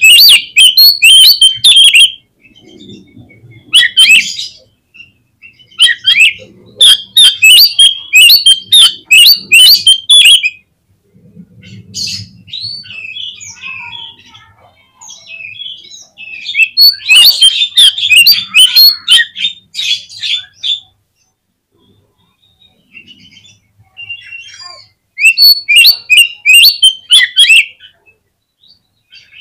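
Oriental magpie-robin (kacer) singing in loud bursts of rapid, high chirping and squawky phrases, each a few seconds long. Softer, scattered notes fill the gaps between bursts.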